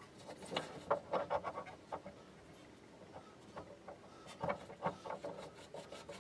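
Scroll saw guard parts being handled and fitted: two short runs of light clicks and rattles, one near the start and another about four and a half seconds in.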